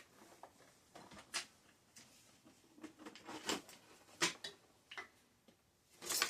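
Scattered light clicks and knocks of tools and bike parts being handled on a workbench, a dozen or so irregular taps with the loudest about a second, three and a half and four seconds in.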